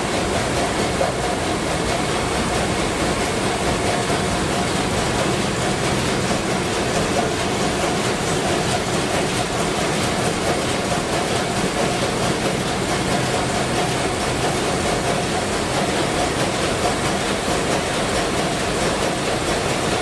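Sulzer 12RTA96C low-speed two-stroke marine diesel main engine running steadily at about 70 rpm, a loud, unbroken mechanical din with a faint steady whine.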